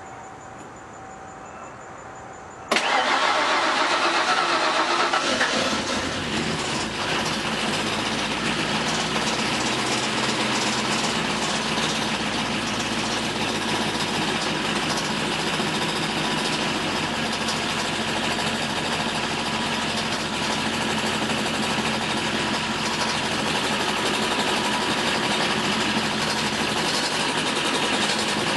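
Ford Crown Victoria's 5.0-litre V8 starting abruptly about three seconds in. It runs a little faster for a few seconds, then settles into a steady idle.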